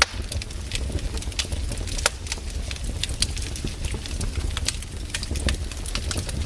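Wood campfire burning: irregular crackles and sharp pops over a low, steady rumble, with the loudest pops right at the start and about two seconds in.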